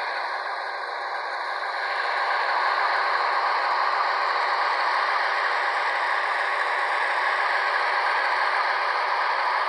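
HO-scale model of a CFR 060 DA diesel locomotive running, its LokSound 3.5 sound decoder playing a Sulzer diesel engine sound through the small onboard speaker. The engine sound is steady and rattly with no bass, and grows a little louder about two seconds in.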